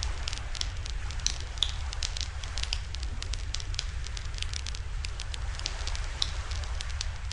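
Wood campfire crackling and popping, with many irregular sharp snaps over a steady low rumble.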